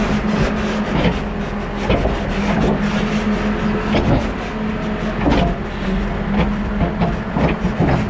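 New Holland backhoe loader's diesel engine running steadily under working load. Its pitch dips and rises every second or so, with occasional clanks.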